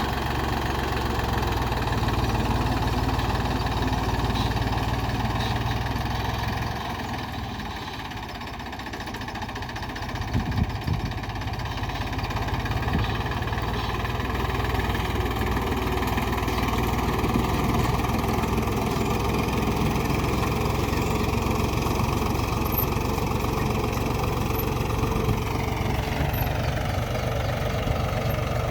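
Mahindra B275 DI tractor's diesel engine running steadily, a little quieter for a couple of seconds early on. Near the end the engine slows and its note falls.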